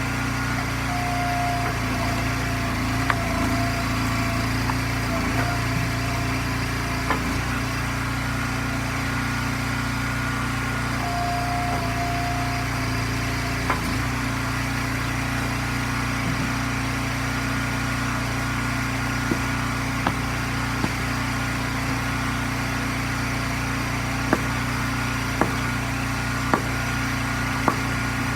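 Gas engine of an Eastonmade hydraulic firewood splitter running steadily, with a brief whine twice and scattered sharp knocks of wood splitting and pieces landing.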